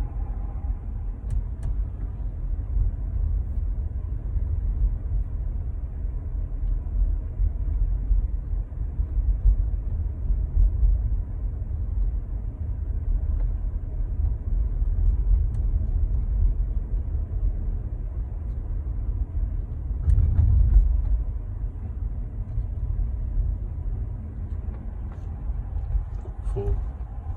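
Steady low rumble of a Skoda Kushaq's cabin with the engine running and the air conditioning on. About twenty seconds in comes a brief surge of noise about a second long, the AC's recurring hiss, which the owner finds abnormal and the dealer dismisses as normal.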